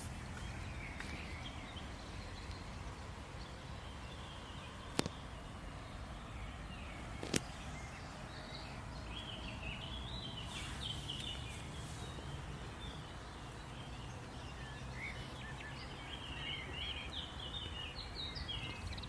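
Outdoor ambience: a steady low rumble with small birds chirping on and off, busiest around the middle and near the end, and two sharp clicks about five and seven seconds in.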